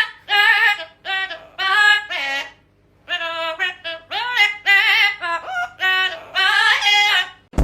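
Parrot vocalising in a string of short, warbling sing-song phrases, with a brief pause a little under three seconds in.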